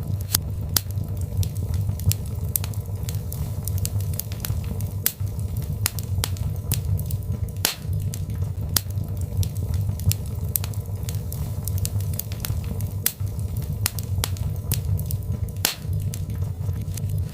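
Birch log fire crackling, with frequent sharp, irregular pops and snaps over a steady low rumble of flames.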